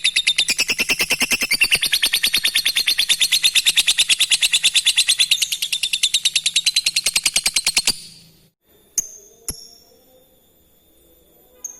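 Lovebird in its long 'ngekek' song: a rapid, shrill, rattling trill of evenly repeated chirps that stops abruptly about eight seconds in. After it come two sharp short chirps and one brief high note near the end.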